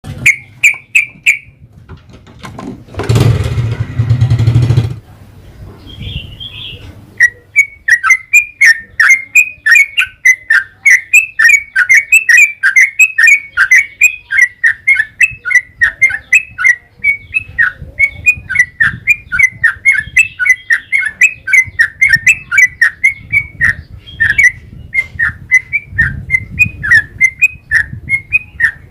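Yellow-vented bulbul singing a long, fast run of short, bright chirps, about four or five a second, without a break from about seven seconds in. Near the start a few chirps are followed by a loud rush of noise lasting about two seconds.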